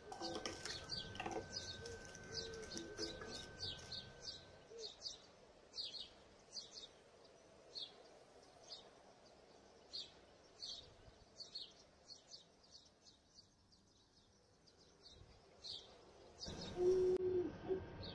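A small bird chirping over and over, short high chirps about once or twice a second, with a few lower drawn-out calls near the end.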